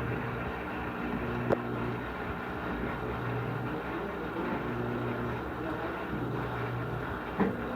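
Electrolux LTC15 top-loading washing machine in its spin cycle with a load of clothes: a steady motor hum whose low drone swells and fades every couple of seconds, with two sharp knocks, one about a second and a half in and one near the end.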